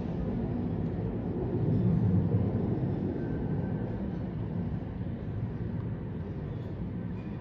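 Helicopter flying past, a steady low rumble that swells about two seconds in and then slowly fades.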